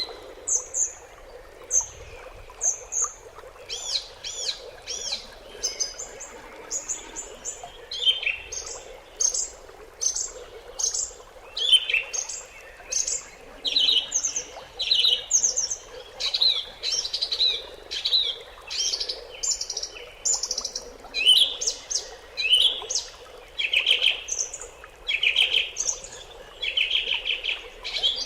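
Birds chirping and twittering: many short, high calls that repeat and overlap, several a second.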